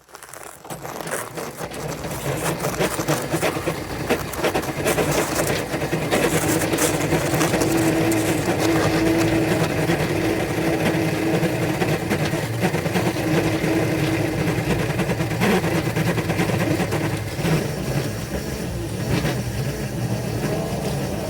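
Model locomotives' electric traction motors and gearing running under heavy load as they push a plow into deep snow. The sound builds up over the first couple of seconds, then holds a steady mechanical whir with clicking.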